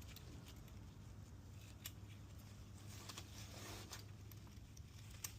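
Faint, scattered light clicks of piston rings and pistons being handled and fitted by hand, over a low steady hum.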